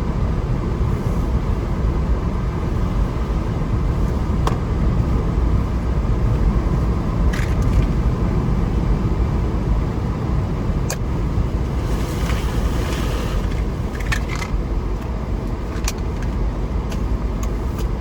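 Steady low rumble of a vehicle driving on a snowy road, heard from inside the cabin, with a few scattered light clicks and a brief hiss around the middle.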